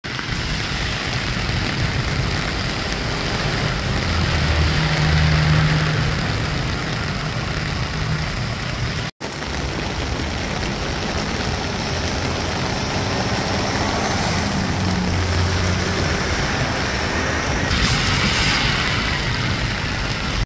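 Heavy rain pouring down in a steady, even hiss, with a low hum swelling briefly twice beneath it and a stronger hissing spell near the end. The sound cuts out for an instant about nine seconds in.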